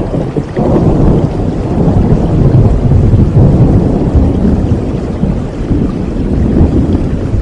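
A long roll of thunder over steady rain: a deep rumble that swells, is loudest a few seconds in, then slowly fades.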